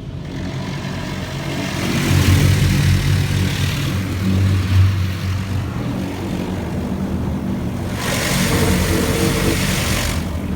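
Spray from a PDQ LaserWash touchless car wash hissing over the car, heard from inside the cabin. It comes in two passes, about two seconds in and again near the eight-second mark, over a steady low hum.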